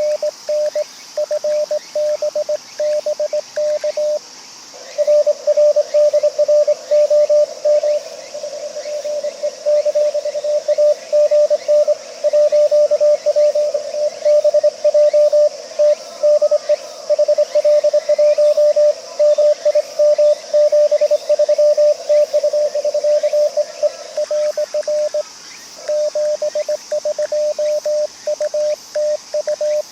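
Morse code (CW) from an amateur radio transceiver: a tone of about 600 Hz keyed on and off in dots and dashes. From about five seconds in to near the end it becomes denser and louder, as stations are heard sending over one another.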